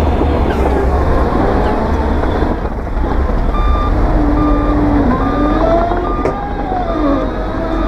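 Heavy diesel earthmoving machinery running with a deep rumble, its engine pitch rising and falling. From about three and a half seconds in, a reversing alarm beeps at an even rhythm, the sign of a machine backing up.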